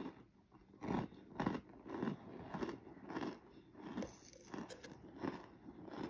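Close-up chewing of a mouthful of powdered cornstarch: soft crunches that come evenly, about one every half second or so.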